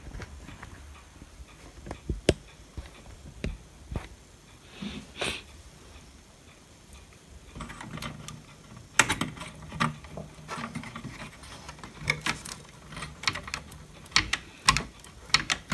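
Scattered light clicks and taps as the power supply board and small parts are handled. They come more often in the second half.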